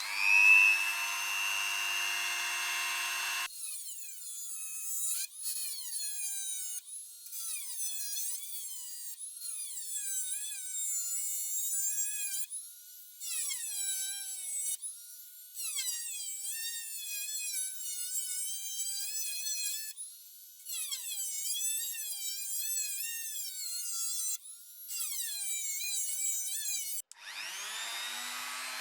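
Small handheld power tool running under changing load. It gives a steady high whine for the first few seconds, then its pitch keeps dipping and recovering as it bears on the work, in several stretches that start and stop abruptly.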